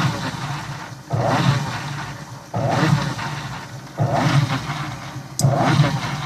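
Electrolux Turbo Limpeza 7.5 top-load washing machine agitating in its wash cycle. The motor kicks in with a sudden surge about every one and a half seconds and then runs down, driving the agitator to one side only, which the repairman takes for a faulty control board.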